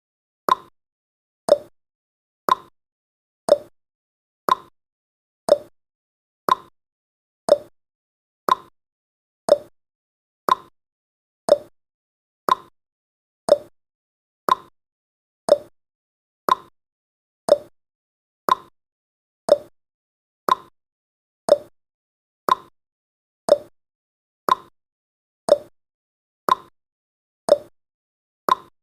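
Countdown timer's clock-tick sound effect: sharp ticks once a second, alternating between a higher and a lower tick like a tick-tock.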